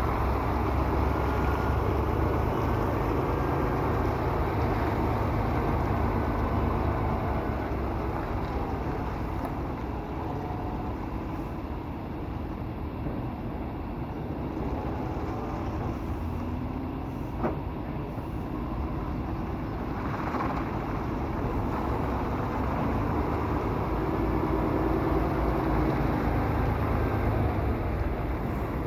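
Semi-truck's diesel engine running steadily at low speed, easing off a little in the middle and picking up again near the end, with a single sharp click about seventeen seconds in.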